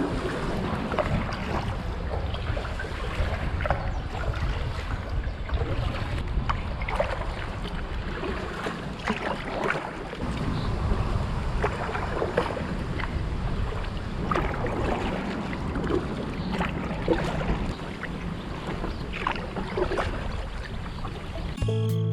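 Strong wind buffeting the microphone as kayak paddles dip and splash in the water in irregular strokes. Music starts just before the end.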